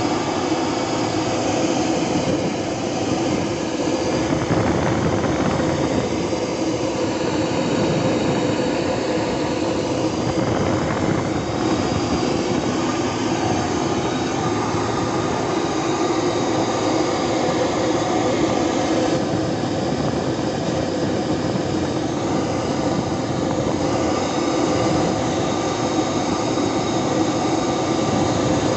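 Turbocharged Detroit Diesel 12V-71, a two-stroke V12 diesel engine, running at a steady speed.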